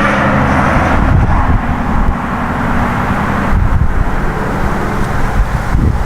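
Road traffic driving past: a steady hiss of tyres on pavement over a low engine rumble, at an even level throughout.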